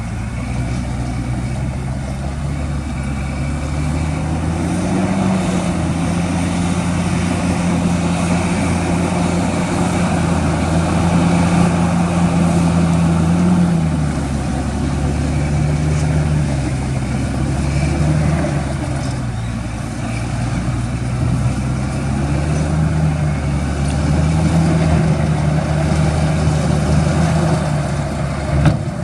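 Heavy diesel engine of earthmoving machinery running under changing load, its pitch stepping up about five seconds in, dropping near the middle, then rising and falling again a few times.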